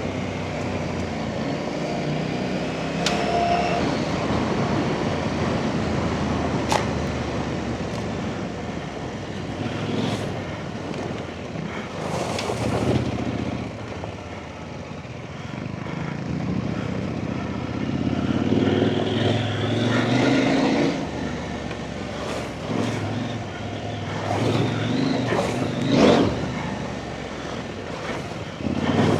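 Off-road trail motorcycle engine running and revving up and down as the bike is ridden through whoops on a rough lane, with a few sharp knocks.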